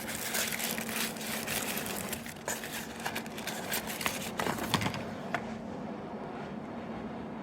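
Plastic crinkling and rattling clicks as a capsule toy or its wrapping is handled, stopping about five seconds in.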